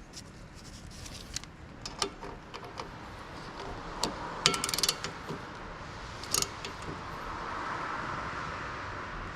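Metal hand tools and brake parts clinking and knocking: a handful of sharp clicks and clinks, the loudest about halfway through and again a little later. Over the last few seconds a broad rushing noise swells and eases off.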